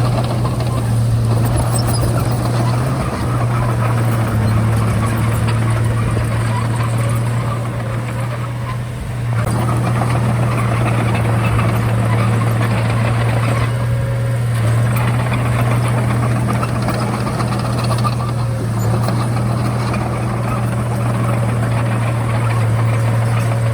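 Komatsu D31A bulldozer's diesel engine running steadily with a low drone, dipping briefly about eight seconds in.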